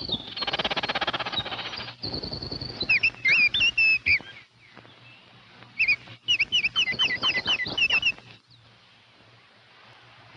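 Birds calling: a rapid chattering rattle in the first two seconds, then runs of short, sharp chirps broken by brief pauses, giving way to faint background hiss after about eight seconds.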